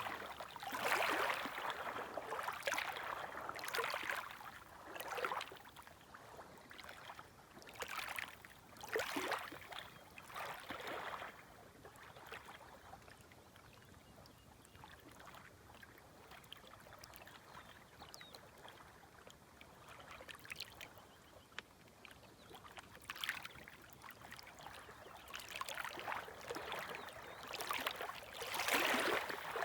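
Small, gentle waves lapping at the shore in irregular washes, settling into a quieter lull midway before the water surges up again near the end.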